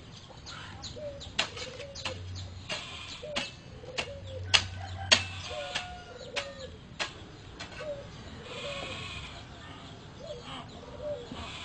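Soft, low bird calls, short coos rising and falling in pitch, repeated about twice a second, with sharp clicks between them.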